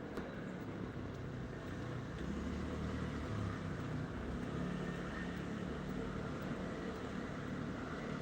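Steady low rumble of a vehicle on the move, with a faint engine hum under a haze of road noise.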